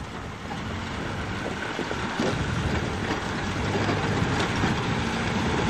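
Engine of an old Jeep-style 4x4 running at low revs as it comes down a steep dirt hill, growing louder as it nears.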